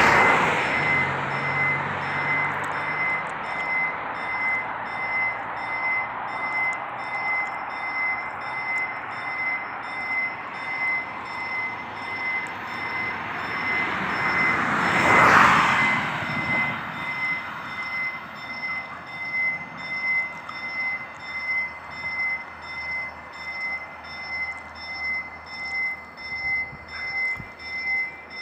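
Level crossing warning bell ringing in a steady repeated pulse, a little over once a second, signalling that the crossing is closing for an approaching train. A vehicle drives across near the start and another, louder one passes about halfway through.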